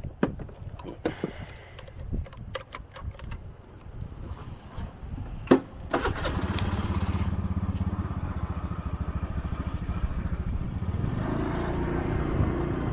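A few handling clicks and knocks, then a small motorbike engine starts about six seconds in and runs with a steady, fast putter.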